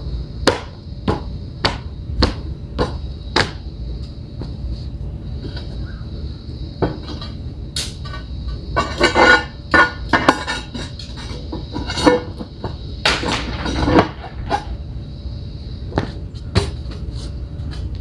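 Hammering during paver work: six evenly spaced strikes about every half second, then scattered knocks and two short stretches of clattering and scraping of hard material.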